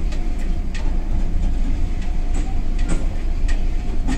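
Regional diesel passenger train running: a steady low rumble with irregular sharp clicks and rattles, and a faint steady tone above it.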